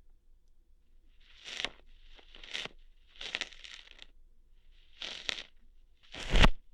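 Ear hair being plucked right at the microphone: five crackling, tearing pulls about a second apart, the last one the loudest.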